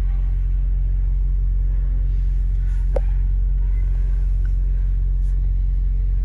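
Steady low rumble of a car running, with one sharp click about three seconds in.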